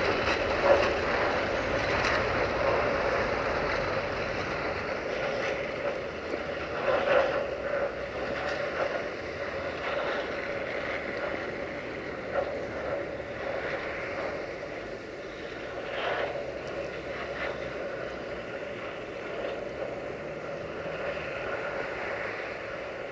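Freight train of tank wagons rolling away on the rails, its wheel rumble slowly fading, with a steady tone held throughout and a few sharp clicks, the loudest about seven seconds in.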